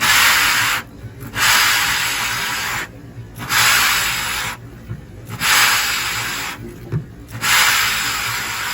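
Snow shovel pushed and scraped through snow in five long, even strokes, one about every two seconds, each a loud rasping hiss.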